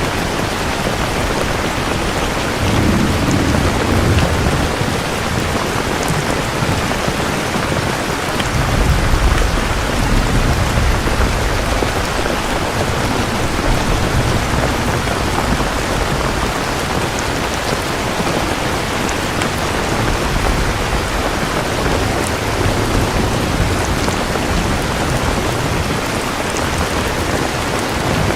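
Steady heavy rain falling, with low rolling thunder rumbling about three seconds in and again for several seconds around the ten-second mark.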